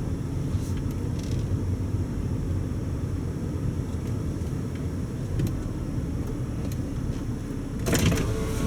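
Car driving slowly with a steady low engine and road rumble, and a brief louder burst of noise near the end.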